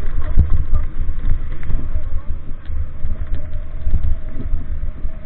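Wind buffeting the microphone over the rumble of a vehicle moving along a rough road, with a steady mid-pitched whine underneath and scattered small knocks.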